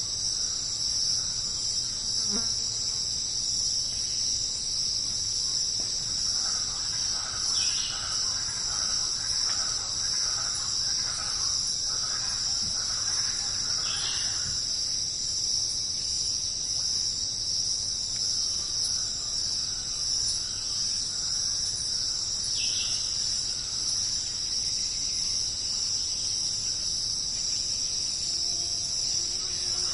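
Jungle ambience: a steady, high-pitched chorus of insects such as crickets or cicadas, with faint warbling calls rising and falling through the middle of the stretch and a few short falling chirps over the top.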